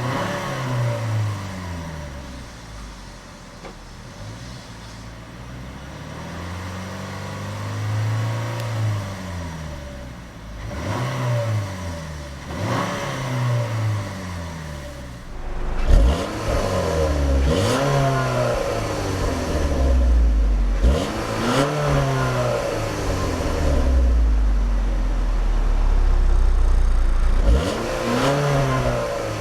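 2012 Buick Verano's 2.4-litre four-cylinder engine being free-revved in park: repeated short blips, each rising and falling back, one every second or two. The low end grows heavier from about halfway through.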